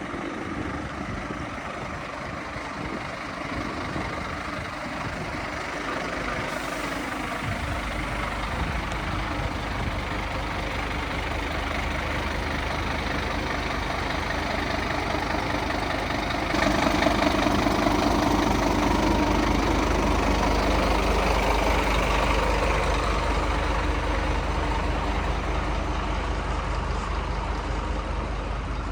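Scania P270 truck's diesel engine running steadily, with a low rumble that fills in several seconds in and a step up in loudness around halfway through.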